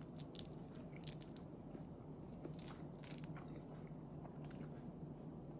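Faint chewing of a nori-wrapped rice ball, with scattered small crackles of the seaweed as the rice ball is pulled in two, thickest about halfway through.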